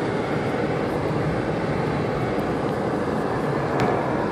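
Steady road noise heard inside a car cabin while driving on a snow-covered road: the engine running and the tyres on snow, with a faint tick near the end.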